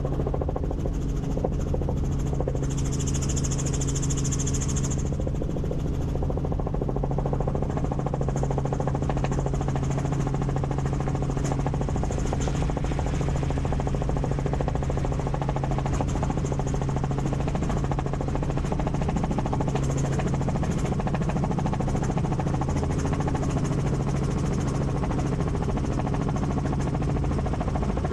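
Helicopter in flight: a steady drone of rotor and engine with a constant low hum, and a brief hiss about three seconds in.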